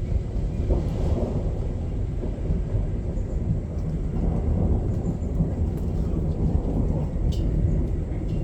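Low, continuous rumbling of distant thunder during a thunderstorm, with a faint click or two near the end.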